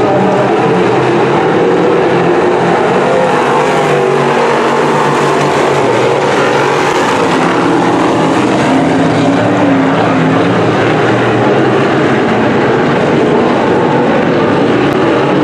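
A field of dirt-track sportsman modified race cars running on the oval: loud, continuous engine noise with several overlapping engine notes rising and falling as the cars rev.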